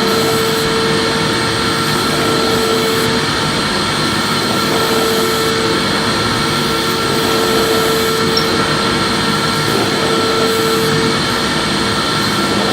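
Electric vacuum cleaner running steadily while vacuuming, a constant rushing hum with a whine that fades and returns every few seconds.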